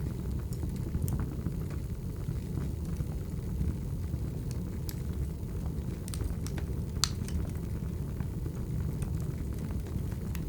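Wood fire burning: a steady low rumble of flames with scattered sharp crackles and pops of the burning logs, one louder pop about seven seconds in.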